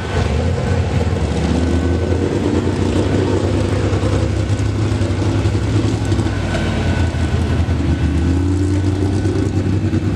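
Tractor engine running steadily at low speed, with slight rises and falls in pitch.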